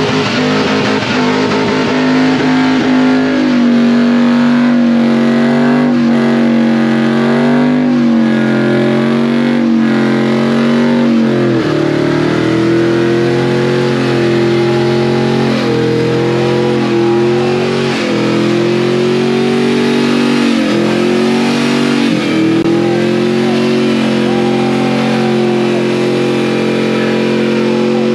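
A car engine held at high revs through a long burnout, its pitch wavering up and down every second or two, dropping sharply about twelve seconds in and then climbing back up.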